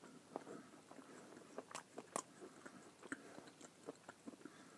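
A person chewing a mouthful of boiled chili wiener with a crisp casing: faint wet mouth clicks and small crunches, with a couple of sharper snaps about two seconds in.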